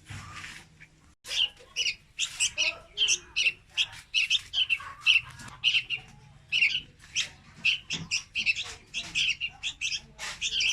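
Juvenile red-whiskered bulbul calling: short high chirps repeated about three times a second, starting about a second in.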